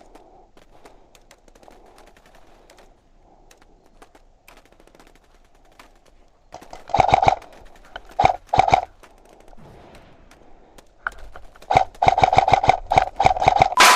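Airsoft replicas firing rapid full-auto bursts: a short burst about halfway through, two brief ones soon after, and a longer burst near the end. Faint scattered clicks come before the first burst.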